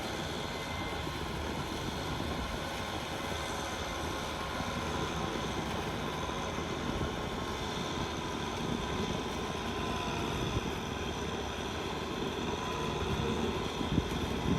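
Tractor engine running steadily under load while tilling a muddy rice field, getting a little louder near the end.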